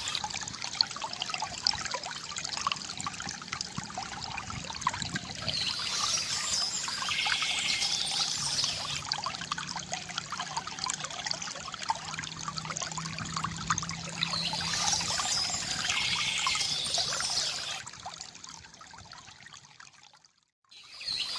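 Water trickling and pouring from a bamboo fountain, with a bird chirping in short bursts a couple of times. The sound fades down near the end, cuts out briefly, then comes back.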